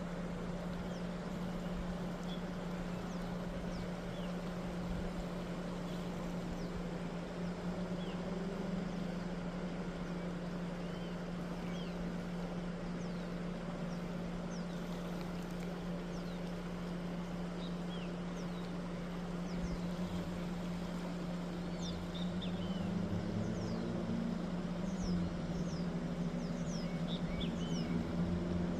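Short high bird calls, which the title puts down to a great kiskadee, come again and again over a steady low hum from a running engine. The calls grow more frequent in the second half, and the hum rises slightly in pitch near the end.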